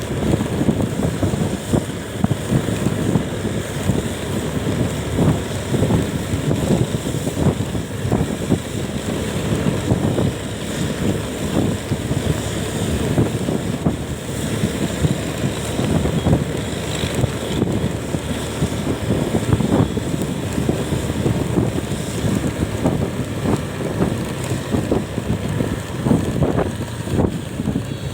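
Wind buffeting the microphone of a moving vehicle, rough and gusty in the low end, with road and vehicle noise beneath.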